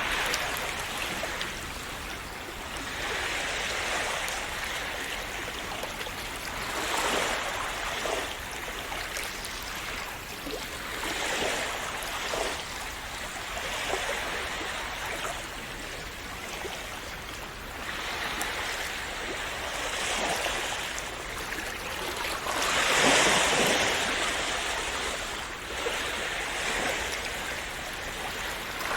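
Calm sea waves splashing and washing in, swelling and easing every few seconds, with one bigger splash about three-quarters of the way through.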